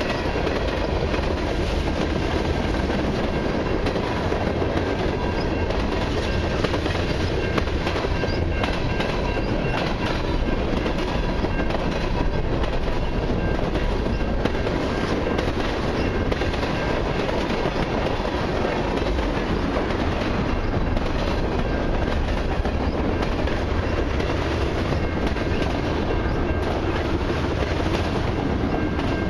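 Cars of a long CN mixed and autorack freight train rolling past: a steady noise of steel wheels on rail with faint clicks.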